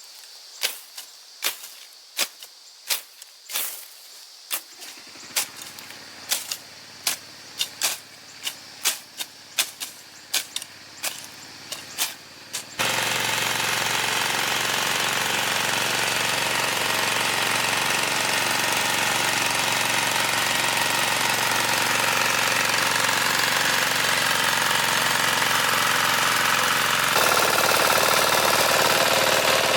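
Sharp chopping strokes of a machete slashing through grass and brush, one to two a second and getting quicker. About halfway in, a farm machine's engine starts running, loud and steady.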